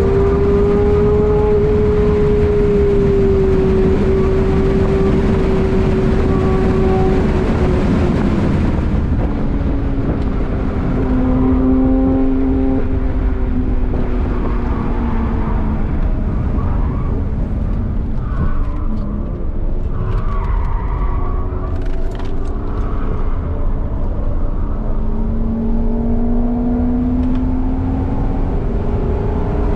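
Onboard sound of a BMW E36 320i Touring's 2.0-litre straight-six at full pace on track, with wind and road noise in the cabin. The engine holds a high pitch for the first several seconds, falls away as the car slows about a third of the way in, runs lower through the middle and climbs again near the end.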